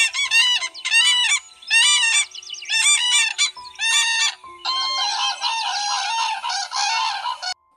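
Recorded bird calls: a run of short, repeated, pitched calls, then one longer continuous call lasting about three seconds.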